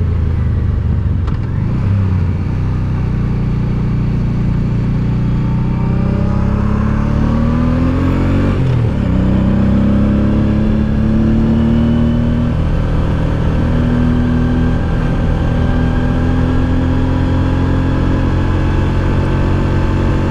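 Honda Deauville 650's V-twin engine pulling the motorcycle uphill, its pitch climbing for a few seconds, dropping sharply about halfway through as it shifts or backs off, then holding a steady pull.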